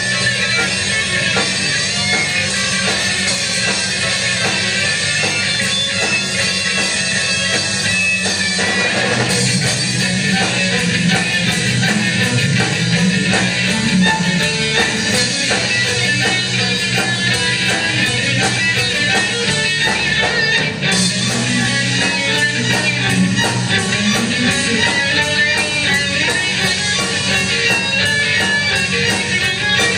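Rock-style band music with guitars playing continuously.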